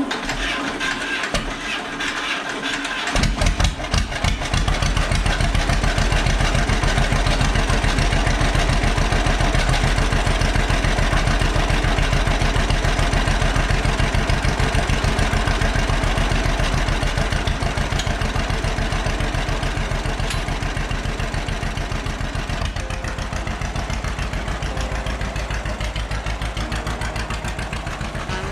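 Tractor engine being cranked over, catching about three seconds in and then running steadily with an even, rapid firing rumble.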